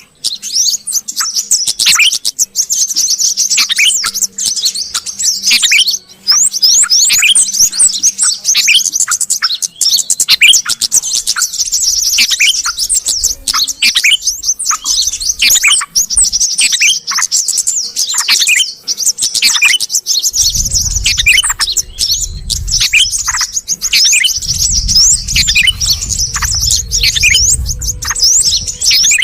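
Dense, overlapping chorus of bulbul calls, yellow-vented and sooty-headed bulbuls, chattering in many short, high, downward-sweeping chirps: a bird-trapping lure recording. A low rumble comes in twice in the second half.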